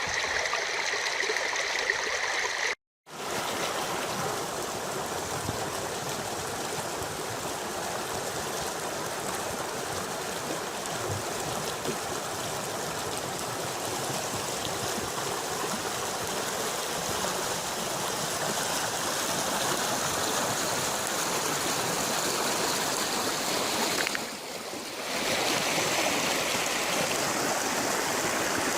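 Steady rushing of a wadi stream running full after heavy rain, with a brief cut-out about three seconds in.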